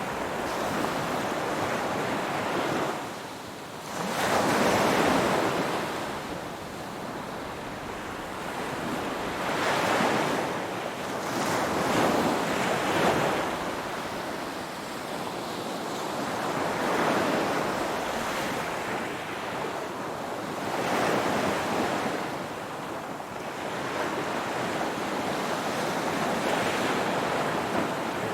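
Ocean waves breaking and washing on the shore, a hissing surge that swells and falls back about every four to five seconds.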